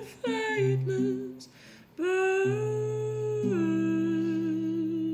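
A woman humming wordless long notes over low sustained accompaniment chords, with a soft breath in a short gap about a second and a half in; the final held note fades out at the end of the song.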